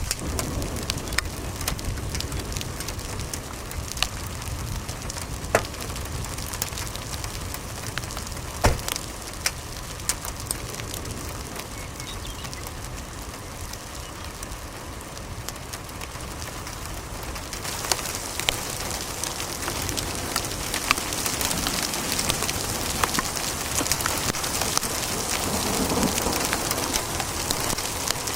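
Hailstorm: a steady hiss of rain and hail on surfaces, with scattered sharp knocks of hailstones striking. The downpour grows louder about two-thirds of the way through.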